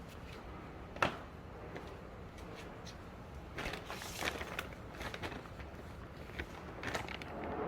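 Scattered clicks, knocks and rustling of something being handled, with one sharper knock about a second in.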